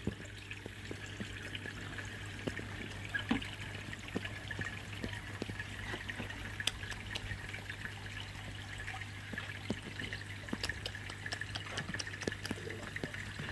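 Steady trickling of water in a garden koi pond, over a low steady hum, with scattered small clicks.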